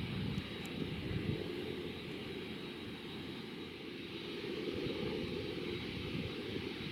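Jet engines of a Boeing 747-8F freighter, its General Electric GEnx turbofans, running with a steady rush and an uneven low rumble.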